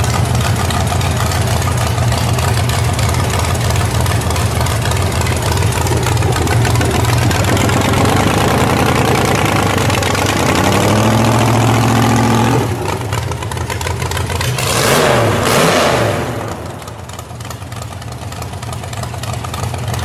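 215 aluminum Buick V8 running loud and steady, then revved with a rising pitch about ten seconds in before dropping back. A short louder burst comes around fifteen seconds, and after that the engine runs noticeably quieter.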